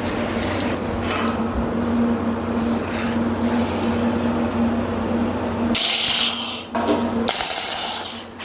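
Metalworking tools on steel: a steady crackling noise over a constant hum, then two loud hissing bursts, each under a second, near the end.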